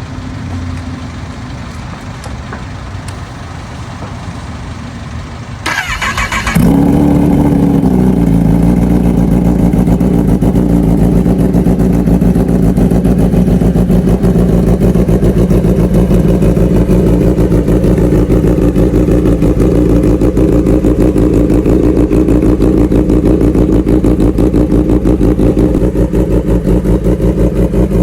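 Kawasaki ZX-10R inline-four sport-bike engine on a cold start: after about six seconds of lower steady background sound, the starter cranks briefly and the engine catches, flares high, then drops within a second or two to a fast, steady cold idle.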